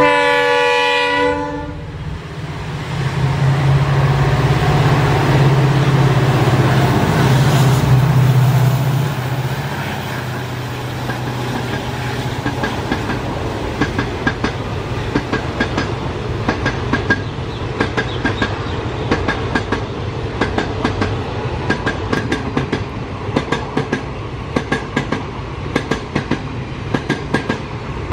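A diesel locomotive's horn sounds one short blast. Then the engine rumbles loudly as the locomotive passes. From about twelve seconds in, the coaches' wheels clatter over the rail joints with a regular clickety-clack.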